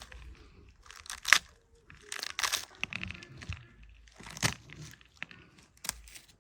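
Irregular crunching and crinkling handling sounds with a few sharp clicks, the loudest a sharp click just over a second in.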